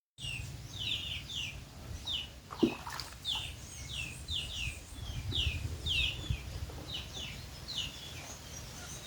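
A small bird chirping over and over, short falling notes about two a second, over a steady low rumble; a single knock about two and a half seconds in.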